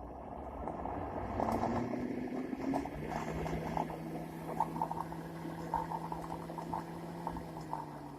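Lada 'classic' heater fan motor, rebuilt with ball bearings, running on the bench with a steady hum. Its pitch rises about three seconds in and then holds, with light irregular clicking over it.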